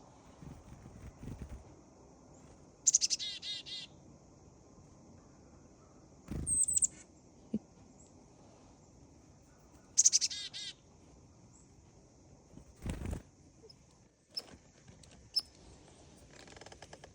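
Black-capped chickadee giving its chick-a-dee call twice, a sharp high note followed by a quick run of buzzy "dee" notes. Two low thuds or rustles come in between.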